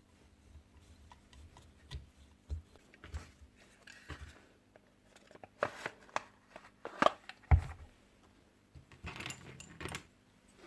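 Parts of a Paslode IM65A gas nail gun and hand tools being handled during its strip-down and service. The sound is scattered light metallic clicks, knocks and jingles, loudest a little past the middle, with a short patch of rattling near the end.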